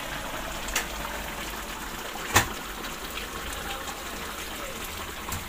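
Steady rushing of water, with two sharp clicks, the louder one about two and a half seconds in.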